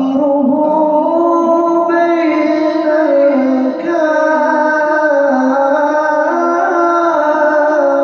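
Suluk, Arabic devotional chanting: one voice singing long held notes with melismatic ornaments that bend and shift in pitch.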